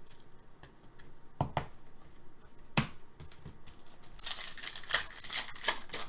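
Hockey trading cards being handled at a table: a couple of sharp taps, then a quick run of crisp rustling and flicking from about four seconds in as cards are slid and sorted.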